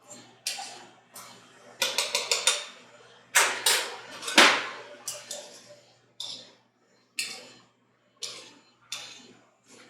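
A utensil scraping and knocking against a bowl as cooked quinoa is stirred and tossed with oil, lemon juice and parsley: a quick run of taps about two seconds in, a louder long scrape near the middle, then single strokes about a second apart.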